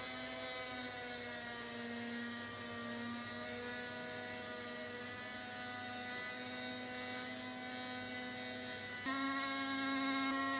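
Small electric power tool motor running with a steady hum, its pitch sagging slightly as if under load, then jumping higher and louder about nine seconds in.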